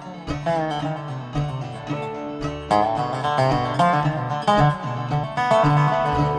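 Bluegrass band playing live on acoustic plucked strings, a dobro lead with notes that slide in pitch over picked guitar and banjo and a steady bass line.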